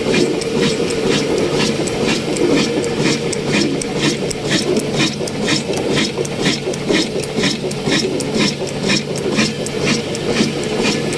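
Old 22/24 HP, 300 RPM diesel oil engine running steadily with a mini flour mill: a constant drone with sharp, regular beats several times a second.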